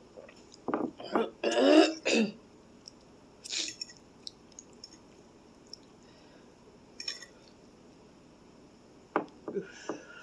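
A woman clearing her throat and coughing in a quick cluster of harsh bursts about a second in, her mouth burning from extra-spicy noodles. A few shorter, quieter throat and mouth noises follow later.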